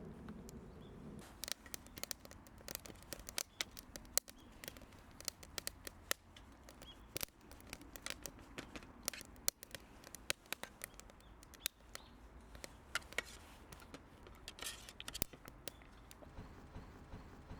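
Wood fire crackling: irregular sharp pops and snaps over a low steady background.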